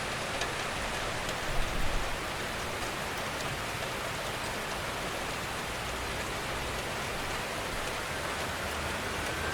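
Steady gentle rain falling, an even hiss with faint scattered drop ticks. There is a brief cluster of louder low thuds about one and a half to two seconds in.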